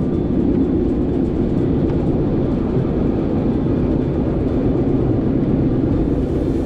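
Narrow-gauge passenger train running, heard on board: a steady, loud low rumble.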